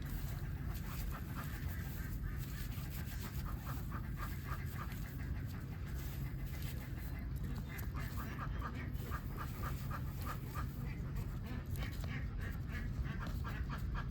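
A flock of domestic ducks quacking in rapid runs of short calls, over a steady low rumble.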